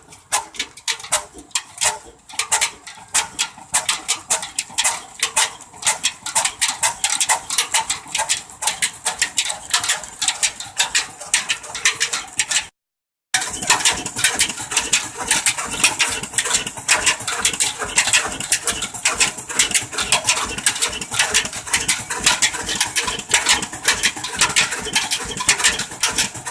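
Old engine-driven toka (fodder chaff cutter) machine running, a rapid steady clatter of sharp ticks several times a second. The sound breaks off for under a second about halfway through, then resumes.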